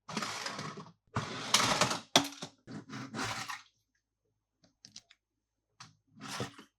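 Close-up handling of toys and their packaging: several bursts of rustling and scraping, about a second each, with sharp clicks in between, one loud click a little over two seconds in.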